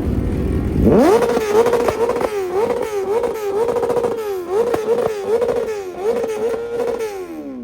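Car engine revved hard onto a two-step launch limiter: the note jumps up about a second in, then stutters against the rev limiter two to three times a second. Near the end the revs fall away.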